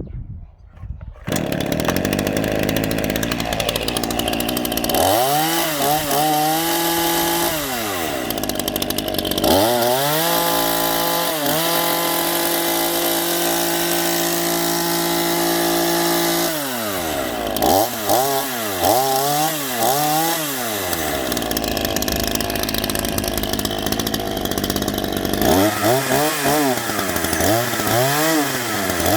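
Cheap Chinese-made two-stroke chainsaw starting up about a second in, then being revved repeatedly: the engine pitch climbs and falls in a series of throttle blips, with one long stretch held at high revs in the middle.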